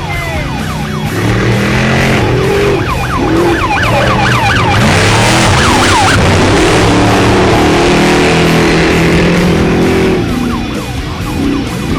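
Trophy truck engines revving hard as the race trucks pass at speed, loudest about halfway through, under rock music.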